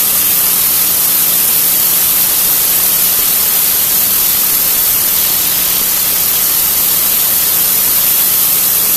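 Pressure washer spraying a concrete driveway: a loud, steady hiss of the water jet hitting the concrete, with a low steady hum from the machine underneath.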